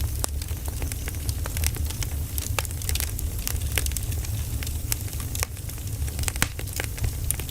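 Burning firewood crackling: irregular sharp pops and snaps over a steady low rumble.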